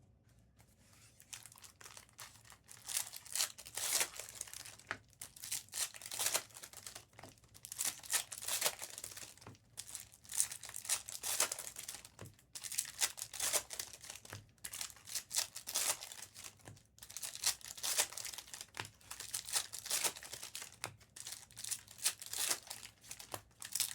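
Trading-card pack wrappers crinkling and tearing as packs are opened by hand, in repeated rustling bursts.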